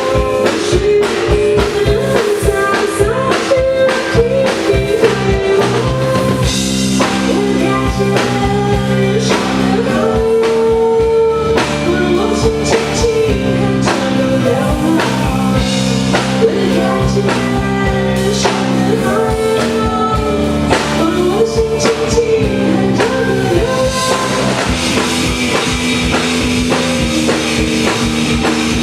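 Live piano-rock band playing a song: drum kit, bass and keyboards with a singer's melody over them. Near the end the cymbals come up and the playing gets brighter.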